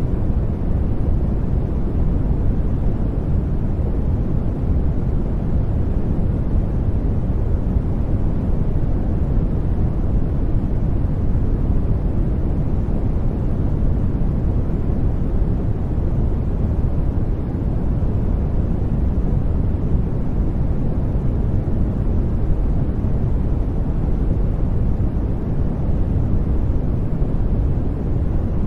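Steady generated sleep noise, sold as white noise, weighted heavily toward the low end so it comes across as a deep, even rush without any change.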